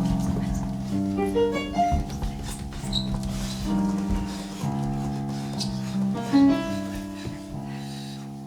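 Keyboard music: held chords that change about once a second, with a quick rising run of notes about a second in and another near six and a half seconds.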